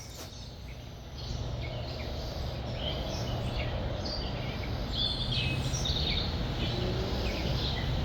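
Several wild birds chirping and calling in short, scattered notes, over a steady low rumble that grows louder about a second in.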